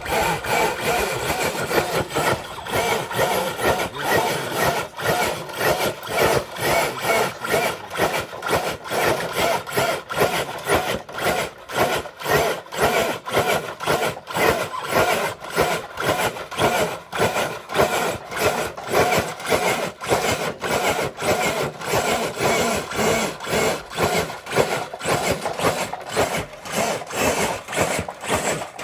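Electric scale RC crawler truck pulling a weighted dead sled: its motor and gears strain while the sled scrapes along the ground, making a continuous rasping noise that pulses about twice a second.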